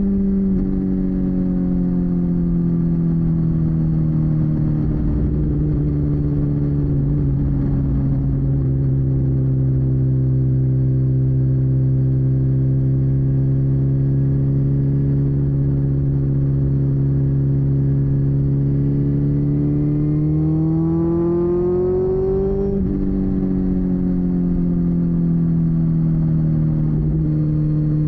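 2022 BMW S1000RR's inline-four engine pulling at cruising speed, with wind rush on the microphone. Its pitch eases down and holds steady, climbs under throttle about three-quarters of the way through, then drops sharply at an upshift and settles.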